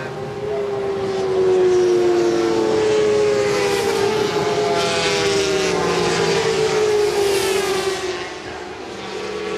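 Several 400 cc supersport racing motorcycles running at high revs as they pass, their engine notes sliding down in pitch as they go by.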